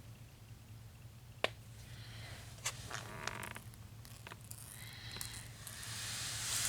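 Small sharp clicks and soft scratchy rubbing from handling painting supplies and working a dark brown wash over a model's floor. The rubbing swells near the end, over a steady low background hum.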